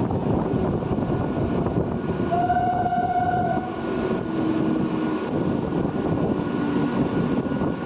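Train passing with a steady loud rumble from wheels on the rails; a little over two seconds in, its horn sounds once for just over a second.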